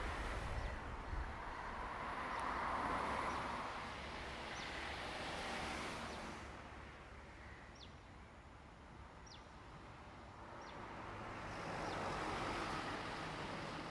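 Vehicle noise: a broad rumble that swells, fades through the middle and rises again near the end, with a few faint short high chirps.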